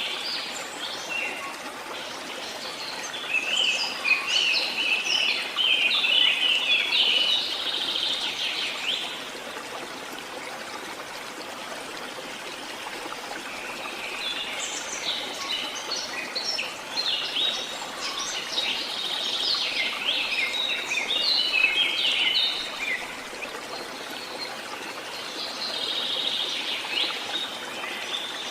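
Songbirds singing in long bursts of rapid chirps and trills, a few seconds in, again through the middle and near the end, over a steady background rush of running water from a stream.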